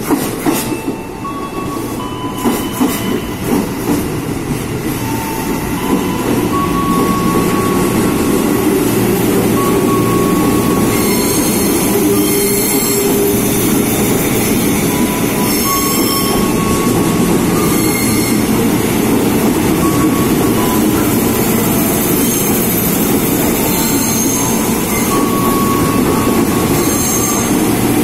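Ex-JR 205-series KRL electric commuter train running through the station without stopping: a few sharp knocks as it arrives, then a steady loud rumble of wheels on rail, with short squeals from the wheels coming and going.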